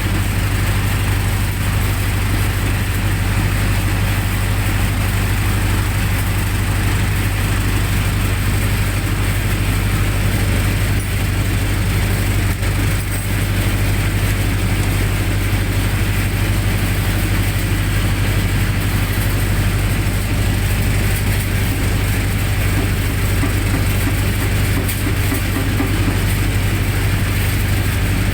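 Generator set engine running steadily, with a constant low hum.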